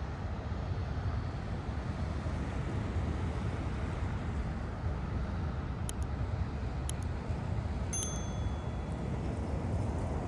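Airbus A321neo airliner's turbofan engines giving a steady, deep rumble during its takeoff, with a few faint ticks and a brief high tone around eight seconds in.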